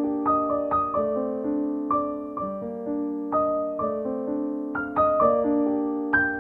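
Background music: a gentle solo piano piece, notes struck singly and in chords that ring and fade.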